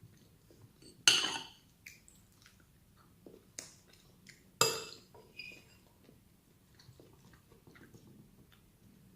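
Cutlery clinking against a plate while eating: two sharp clinks with a short ring, about a second in and again near the middle, among softer taps.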